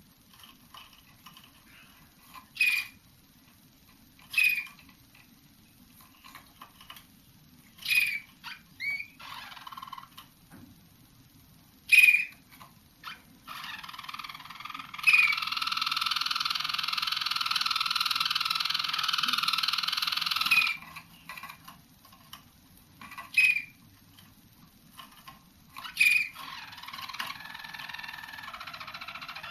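Young roller canaries singing: short sharp calls every few seconds, and in the middle one long rolling song passage held for about six seconds. This is the young birds working out new song tours.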